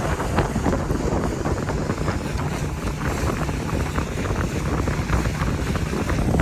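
Motorboat running across the lake: a steady low engine drone under heavy wind buffeting the microphone.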